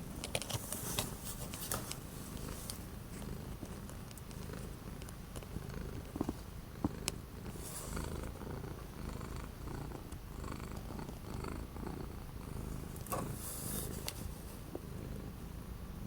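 Domestic cat purring steadily, with a few faint clicks and rustles over it.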